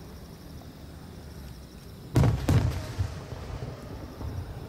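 Large aerial firework shells bursting: two heavy booms about half a second apart, a little over two seconds in, each trailing off in a rolling echo.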